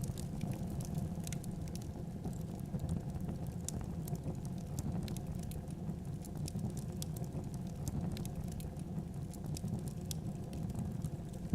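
Wood fire burning in a fireplace: a steady low rumble with many scattered sharp crackles and pops.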